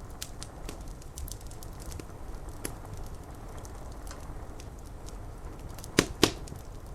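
Wood fire crackling, with scattered small clicks over a steady low background and two sharp, loud pops close together near the end.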